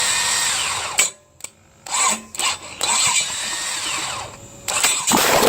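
6.0-litre LS V8 being cranked by its starter in short, broken bursts with clicks between them, then catching and running loudly about five seconds in.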